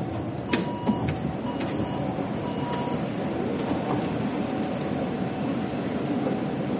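Steady rumble inside a metro train car, with three short electronic beeps about a second apart near the start: the train's door-closing warning.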